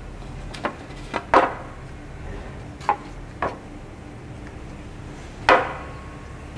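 Hard objects knocking against a wooden plank: six sharp, separate knocks at uneven intervals, the loudest about a second and a half in and another near the end.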